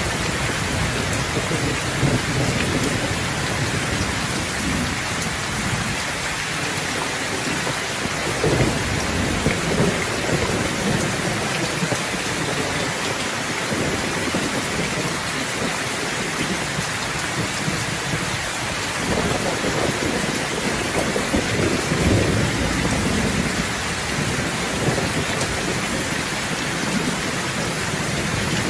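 Steady heavy rain hissing, with rumbles of thunder swelling and fading several times, strongest about a third of the way in and again past the middle.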